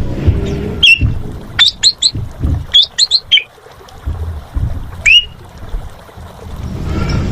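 Javan pied starling (jalak suren) calling: loud, sharp whistled notes that slide steeply downward, given singly and in quick runs of two or three, with a pause after a few seconds before one last call. A low rumble of wind on the microphone runs underneath.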